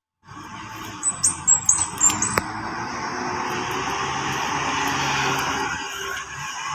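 Diesel engine of an old Isuzu Elf dump truck labouring up a slope, growing slowly louder. Several sharp clicks and short high beeps come in the first couple of seconds.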